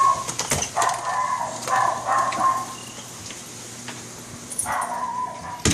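Dog whining in several high, drawn-out whines, with a sharp knock near the end.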